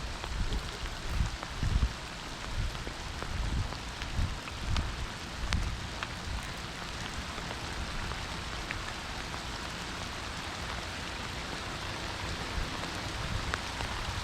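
Heavy rain falling steadily, an even hiss with fine drop ticks. Low thumps come and go over the first few seconds, then fade out.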